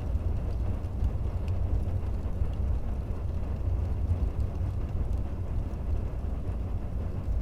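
Wood fire burning in a fireplace: a steady low rumble of the flames and draught, with a few faint crackles.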